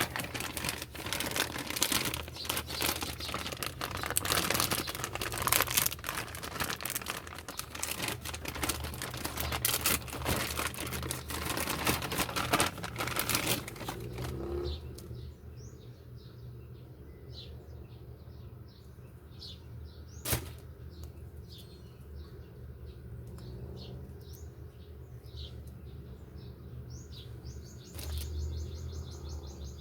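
Packaging rustling and crinkling as it is handled for about the first fourteen seconds. After that it is quieter, with birds chirping in the background, a single sharp click about twenty seconds in and a fast high trill near the end.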